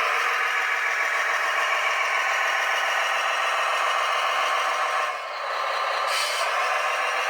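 Scale RC construction truck running, with a steady, high-pitched mechanical whine from its electric drive and gearing. It drops briefly about five seconds in, then a short hiss follows about six seconds in.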